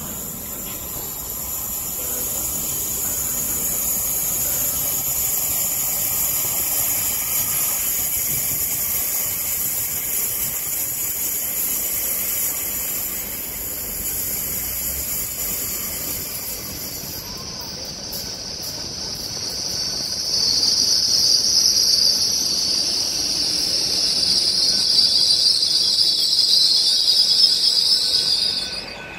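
GWR Hitachi intercity express train arriving and slowing into the platform: a steady high whine, then about twenty seconds in a loud, high-pitched squeal sets in as it draws alongside and continues to the end.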